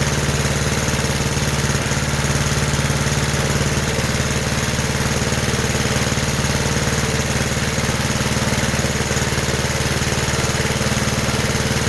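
Johnson Iron Horse 'Chore Horse' generator's small gasoline engine running steadily, driving its 12-volt DC generator on test with a battery hooked up; the tone shifts slightly about four seconds in.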